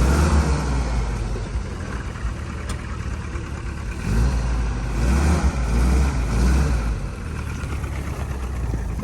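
An engine running, its low rumble swelling and easing, loudest at the start and again in the middle.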